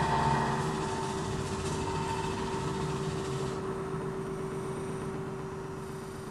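A motor vehicle's engine running steadily with a low hum, slowly fading away; the higher hiss drops out about halfway through.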